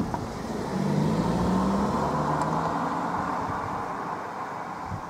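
Class 221 Super Voyager diesel multiple unit running away down the line: the drone of its underfloor diesel engines and the noise of wheels on rail, fading steadily as it recedes.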